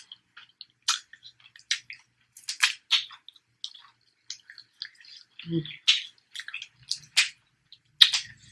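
Close-miked chewing of a mouthful of food, with many short, irregular, wet clicking and smacking mouth sounds.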